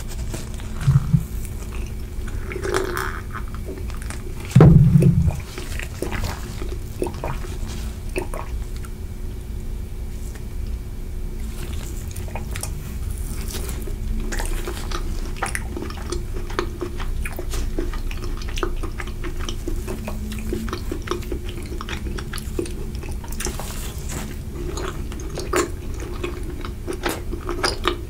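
Close-miked eating: biting and chewing vanilla mochi ice cream, with many small wet mouth clicks throughout. Two loud low thumps come in the first five seconds.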